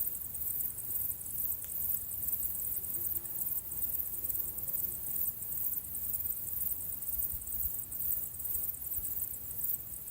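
Outdoor nature ambience: a steady, high-pitched, fast-pulsing hiss, like an insect chorus, over a faint low rumble.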